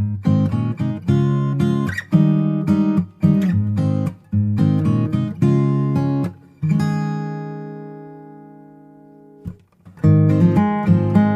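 Background music of strummed acoustic guitar chords. About halfway through, one chord is left to ring and die away; then the strumming starts again near the end.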